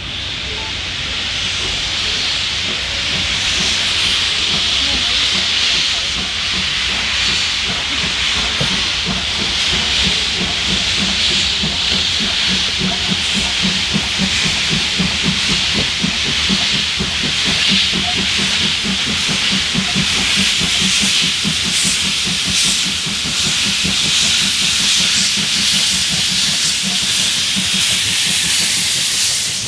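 Steam locomotive venting steam with a loud, steady hiss, over a fast rhythmic low pulsing through the middle stretch.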